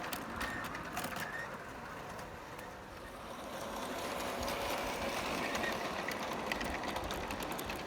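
Lionel large-scale James toy locomotive running along its track with a steady electric-motor and gear whir and faint clicks, hauling a goods train of trucks. It grows louder about halfway through.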